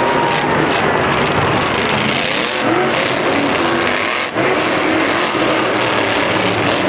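Monster truck's supercharged V8 running loud, its pitch rising and falling as it revs, with a brief dip about four seconds in.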